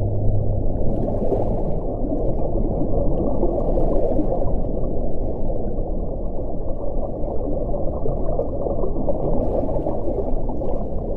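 Wind blowing as a steady, deep rumble, with faint higher rushes of air about a second in, around four seconds, and near the end.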